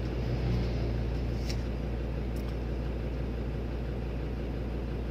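Car engine idling steadily, heard from inside the stationary car's cabin, with a couple of faint clicks.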